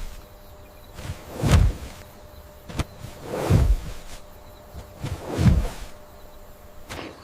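Gusts of wind whooshing through trees in a storm, swelling and dying away about every two seconds over a steady hiss of wind and rain, with one sharp click near the middle.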